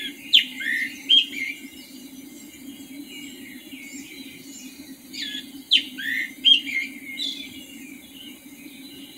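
A songbird singing bursts of quick, high chirping notes that fall in pitch, once at the start and again about five seconds in, over a steady low hum.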